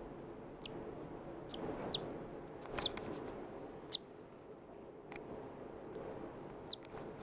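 Six-day-old cockatiel chick giving faint, short, high-pitched peeps that slide down in pitch, about seven of them at irregular intervals.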